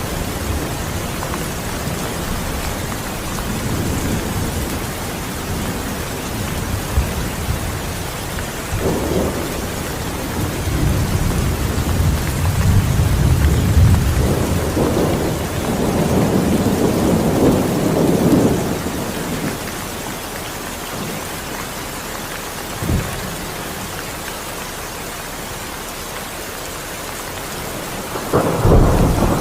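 Steady heavy rain with a thunderstorm: long low rolls of thunder swell through the middle, then a short sharp crack, and a louder thunderclap near the end.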